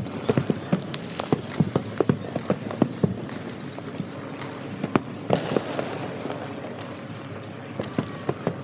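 Distant fireworks bursting: many sharp bangs in quick succession, thinning out after about three seconds, with a brief hiss about five seconds in.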